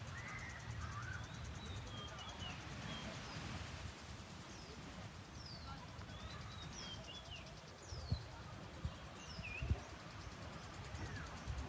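Birds chirping outdoors: many short, quick sliding calls, over a low steady rumble. A couple of brief thumps come in the second half.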